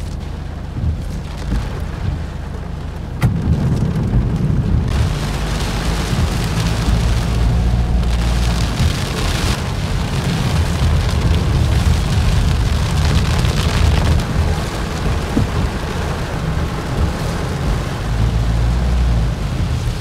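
Heavy rain falling on a car's windscreen, heard from inside the car over a steady low rumble. The rain grows louder about three seconds in and heavier again about five seconds in.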